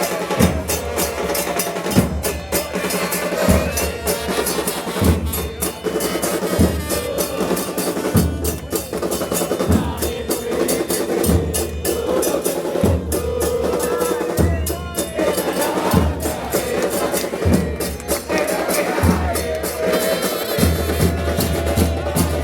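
Supporters' drum band playing a steady beat: a bass drum struck about every second and a half under fast, continuous snare drumming, with a pitched melody line over it.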